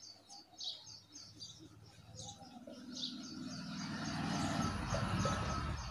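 Small birds chirping over and over in quick short notes, with a low rumble that grows steadily louder from about two and a half seconds in.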